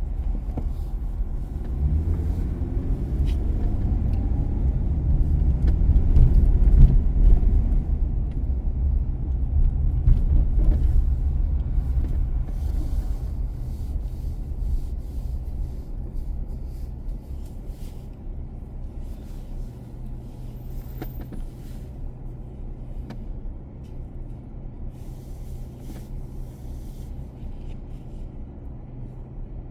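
Car driving: a low rumble of engine and tyre noise, louder for roughly the first dozen seconds with the engine note rising and falling, then easing to a quieter steady hum.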